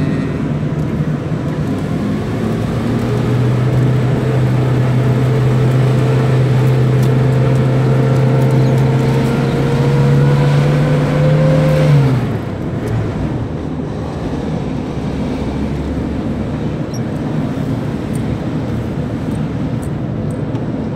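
Car engine heard from inside the cabin, its note climbing slowly for about nine seconds as it pulls, then dropping away abruptly about twelve seconds in. After that there is a steady rumble of road and tyre noise.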